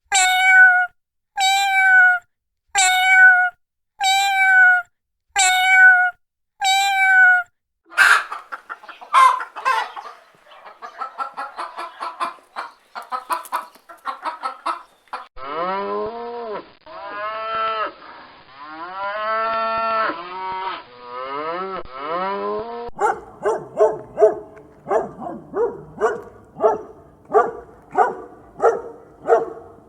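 Farm animals calling in a run of separate recordings. It opens with six short, evenly spaced calls, then chickens clucking, then several longer drawn-out calls, and ends with a fast series of short calls.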